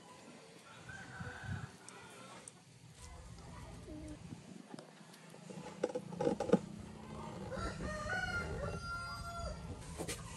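Animal calls: a cluster of short calls a little past halfway, then one long call that ends on a held steady note, over a low steady hum.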